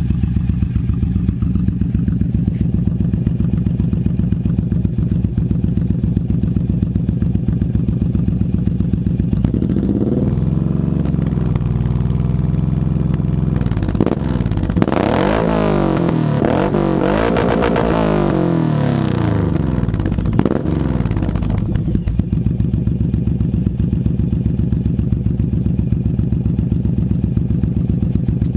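2008 Suzuki C109R's V-twin engine running through a G-Pipe exhaust. It idles with an even pulsing beat, is revved several times from about ten seconds in, rising and falling in pitch, and settles back to idle near the end.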